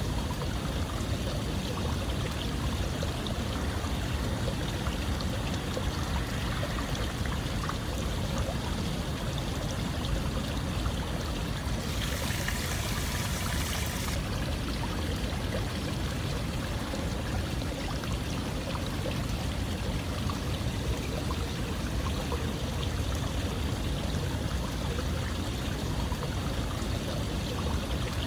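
Running water flowing steadily, with a brighter hiss for about two seconds near the middle.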